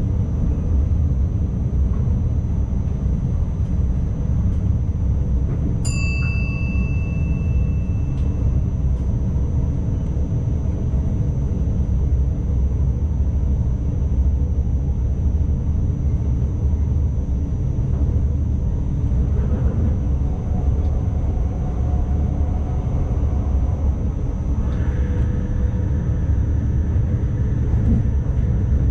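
An ICMm intercity trainset running along the line, heard from the driver's cab: a steady low rumble with a constant high-pitched tone over it. About six seconds in, a single chime rings and fades over a few seconds.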